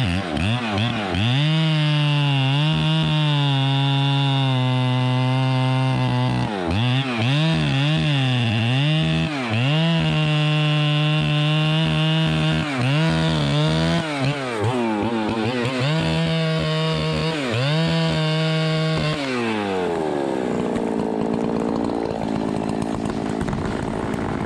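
Chainsaw running at full throttle, its pitch dipping and recovering again and again as it bogs under load in the wood, then dropping to idle about 19 seconds in. The owner says this saw is running too rich and has been sputtering.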